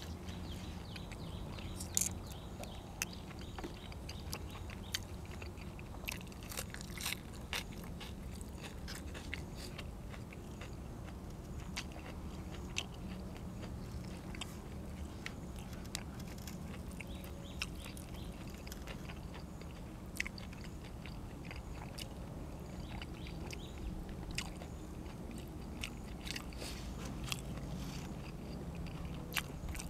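A person eating close to the microphone, chewing and biting, with frequent small crunches and clicks at irregular intervals over a steady low hum.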